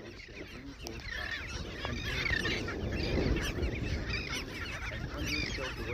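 A crowd of birds at a nesting colony with adults and chicks calling together: many short squawks and chirps overlapping, busier from about a second in.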